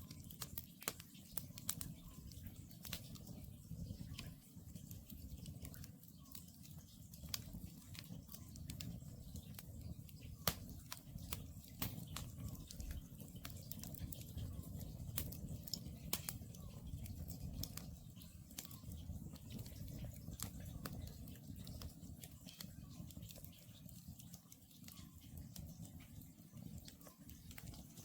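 Wood campfire burning with a steady low rush and frequent sharp crackles and pops, while a distant Oriental scops owl gives faint, short repeated calls every second or two.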